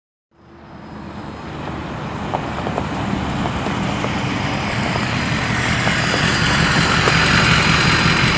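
Ford 6.0L Power Stroke V8 diesel truck running through a straight-pipe exhaust, fading in from silence and growing steadily louder.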